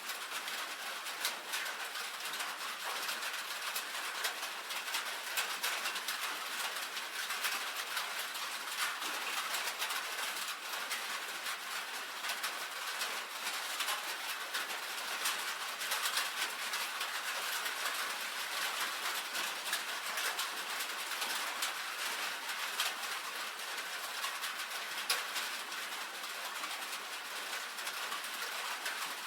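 Rain falling steadily on a tin roof: a dense, even patter of many small drop impacts.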